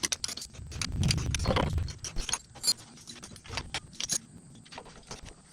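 Metal hand tools and loose hardware clinking and rattling as they are handled, a run of sharp separate clicks with a duller rustling patch about a second in.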